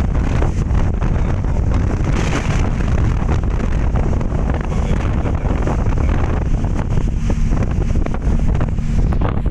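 Strong storm wind gusting and buffeting the microphone, over a steady rush of wind-driven heavy rain.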